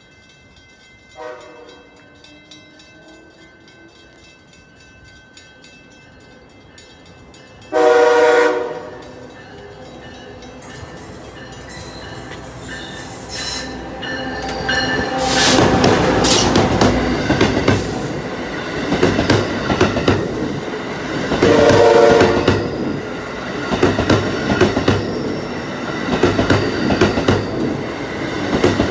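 Amtrak Acela Express trainset coming into the station. Its horn sounds faintly about a second in, then loudly at about 8 s and again at about 22 s. The rumble and clatter of the power car and coaches on the rails grow louder from about halfway as the train rolls past.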